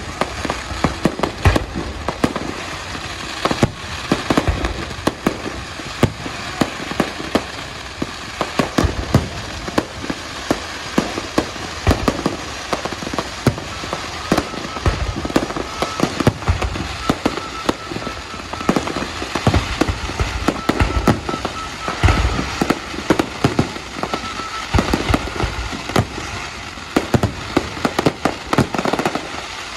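Fireworks and firecrackers going off in a dense, continuous barrage: many sharp bangs and crackles every second, with heavier low booms every few seconds.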